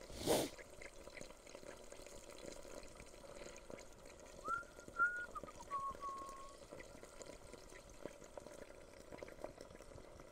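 Potatoes and apples frying quietly in a camp pan over a wood fire: a low sizzle and hiss with faint crackles. A brief knock just after the start is the loudest sound, and a few short whistled notes come in the middle.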